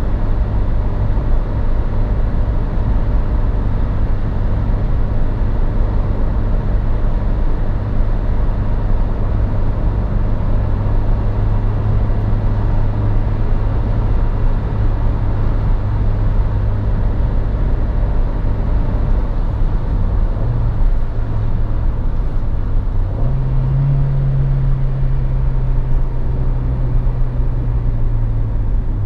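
Suzuki Jimny's 1.5-litre four-cylinder engine running at a steady pitch under a continuous drone of driving noise. About three-quarters of the way through, the engine note steps up to a higher pitch and holds, falling a little near the end.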